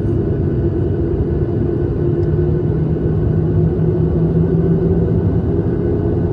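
Airliner cabin noise: a steady, loud low drone of jet engines and airflow heard from inside the cabin, with a constant hum. A lower hum joins about two seconds in and fades out near the end.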